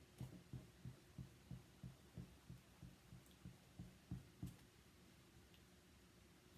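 Faint, soft low taps, about three a second, stopping about four and a half seconds in: chalk paste being worked through a design transfer with a spreading tool.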